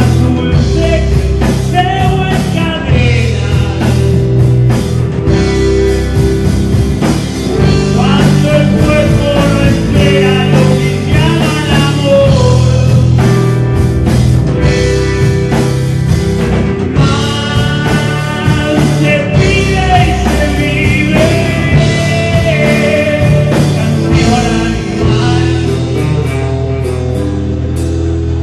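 Rock band playing: electric guitar, bass and drums, with a melody line that bends in pitch over them.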